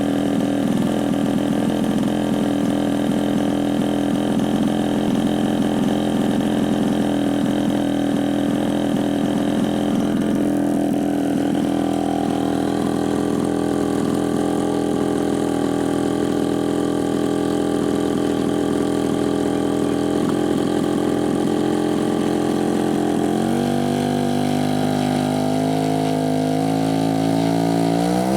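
Desert Aircraft DA-85 two-stroke gasoline engine of a large radio-controlled PT-17 Stearman model idling steadily during a radio range check. Its note shifts about three-quarters of the way through and begins to rise just at the end.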